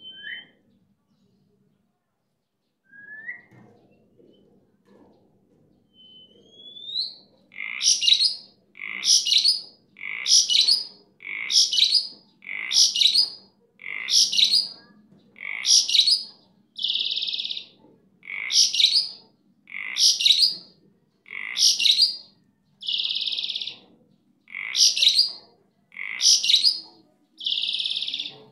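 Jalak (Asian starling) singing hard, in full 'gacor' form. A few short rising whistles come first, then from about a quarter of the way in a steady run of loud, sharp calls about once a second, broken every five or six seconds by a longer buzzy note.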